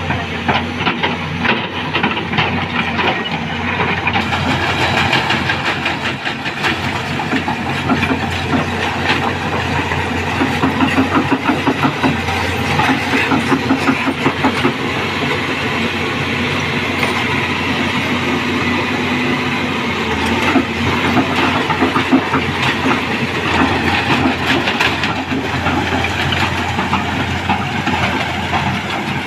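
Heavy machinery running, with a continuous dense rattling clatter and hiss.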